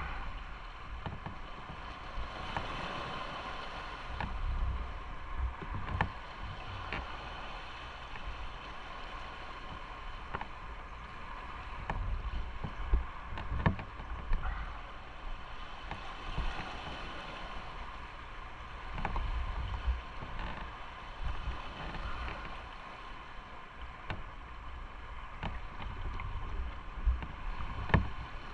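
Motorcycle on the move: steady wind and road noise with a low rumble and engine hum, broken by occasional short sharp knocks, the loudest about halfway through and again near the end.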